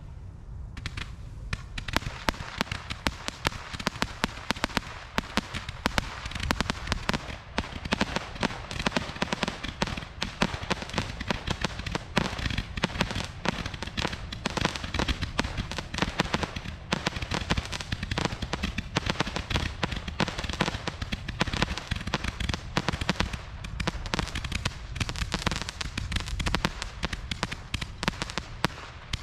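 Gumball Cannon barrage candle firing: a fast, unbroken stream of small shots and crackling, with louder reports scattered through it.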